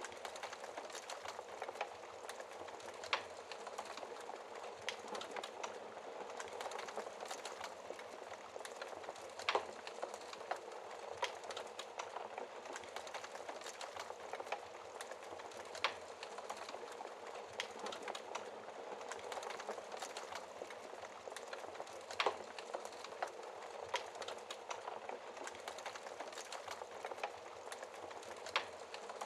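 Wood fire burning in a fireplace: a steady hiss with scattered sharp crackles and pops, a few louder snaps among them.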